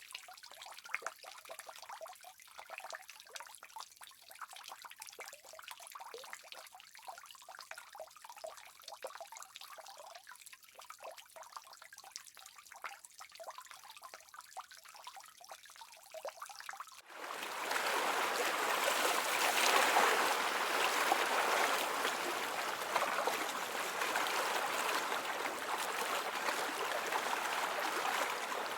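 Water trickling with small splashy ticks. About two-thirds of the way in it cuts suddenly to a louder, steady rush of flowing water, like a stream.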